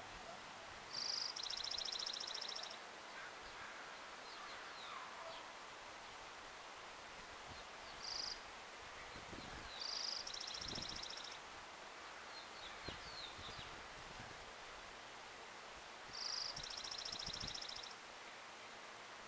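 A bird singing the same short song three times, about every seven seconds: a brief high note followed by a buzzy trill, with one lone note between the first two songs. Faint rustling and outdoor background noise run underneath.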